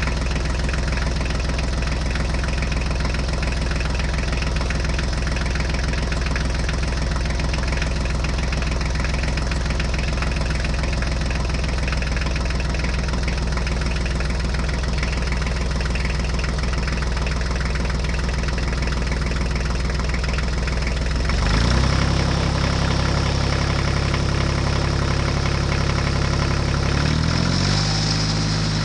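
Tractor engine idling steadily with a knocking beat. About two-thirds of the way through its pitch steps up as the engine speeds up, and it changes speed again near the end.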